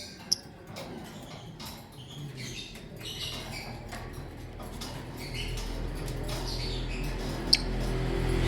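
Lovebirds giving short, high squeaky chirps, with two sharp high clicks, one near the start and one near the end. A low hum grows steadily louder underneath from about halfway through.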